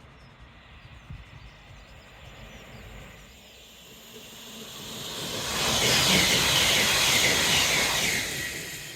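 A train passing through the station at speed: a rush of wheel and air noise swells from about four seconds in, peaks loudly for a couple of seconds, then dies away near the end.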